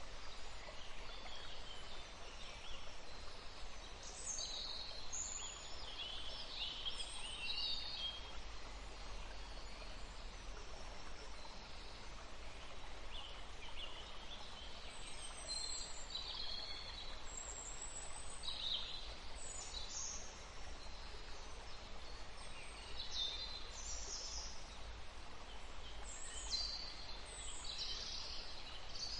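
Forest birdsong: several small birds chirping in short, high calls scattered throughout, over a steady faint background hiss.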